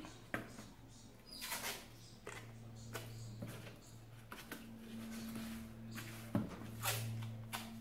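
Scattered light taps, rustles and scrapes of hands handling cardboard and sticky tape, over a steady low hum.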